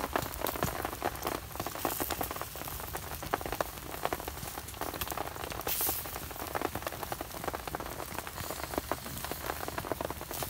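Steady rain pattering: a dense, even hiss of countless small drop ticks.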